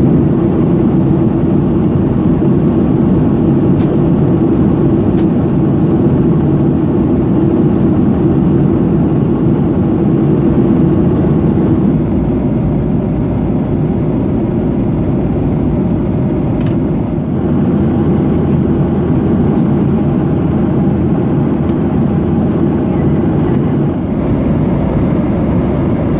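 Steady cabin noise of a Boeing 737-800 in flight: the drone of its CFM56 turbofan engines and the rush of air over the fuselage, even and unchanging.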